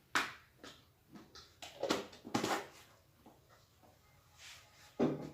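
A spoon scooping margarine into a bowl of sugar: a series of short knocks and scrapes of the spoon against the bowl, several close together in the first half and two more near the end.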